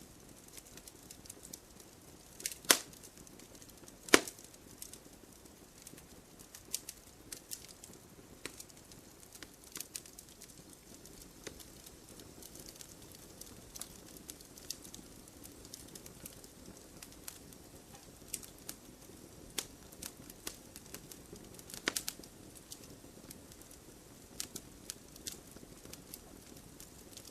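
Wood fire crackling in a fireplace: scattered small clicks and snaps over a low steady hiss, with a few louder pops, two close together near the start and one past the middle.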